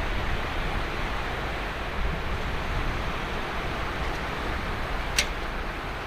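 Ocean waves washing steadily onto the beach, with a single short, sharp click about five seconds in.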